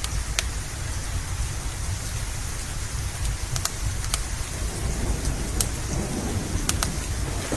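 Steady rain with a constant low rumble that swells over the last couple of seconds. A wood fire's sharp crackles and pops stand out a few times throughout.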